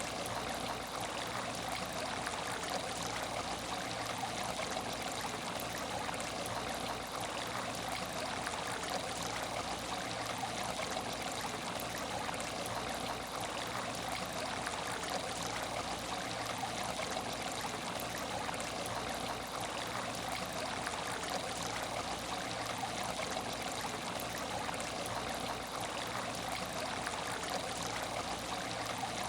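Water in an empty aquarium tank, running and trickling steadily without change.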